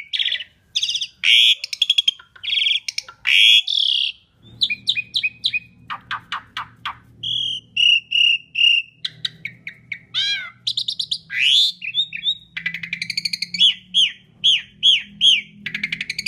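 Asian pied starling (jalak suren) singing a fast, varied song of clear whistles, harsh raspy notes, quick repeated phrases and sweeping glides, with short pauses between them.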